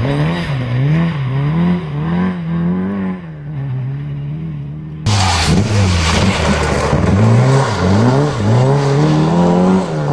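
Historic rally car engine revving hard, its pitch climbing and dropping again and again as the driver works through the gears and lifts for corners. About halfway through, the sound switches abruptly to another pass of the same car, revving the same way.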